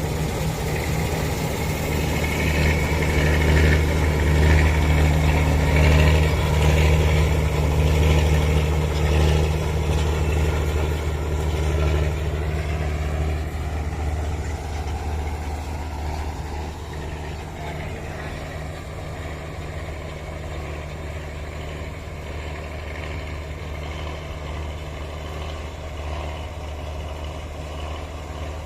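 Engine of wheat-harvesting machinery running steadily, loudest for the first dozen seconds or so, then settling a little lower and holding steady.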